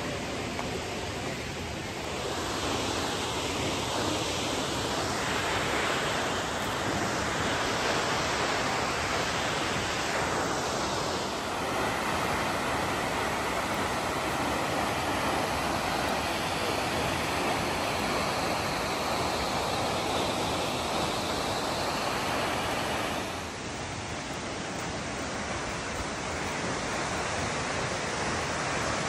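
Steady rushing of falling water from a waterfall, a continuous even roar that shifts in tone and loudness a few times.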